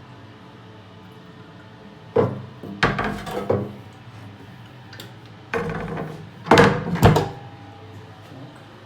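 Two groups of knocks and thuds, the first about two seconds in and a louder one from about five and a half to seven seconds in, like a door or cupboard door being opened and shut.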